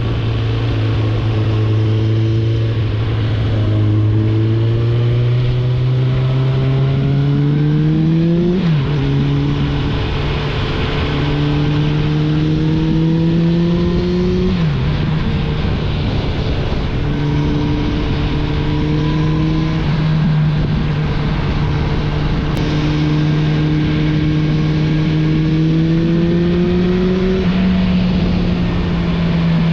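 Suzuki GSF650 Bandit's inline-four engine with an Akrapovic exhaust, pulling as the bike accelerates: the note climbs slowly in each gear and drops sharply at a few upshifts. Steady wind and road rush lies underneath.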